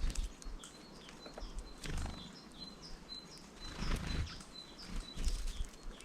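Small songbirds at a feeder chirping with many short, high call notes in quick succession, over a few soft low thumps.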